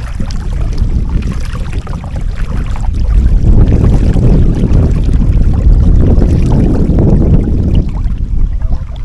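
Strong wind buffeting the microphone of a kayaker's action camera: a loud, gusting low rumble that grows stronger about three seconds in, with some water sounds around the kayak.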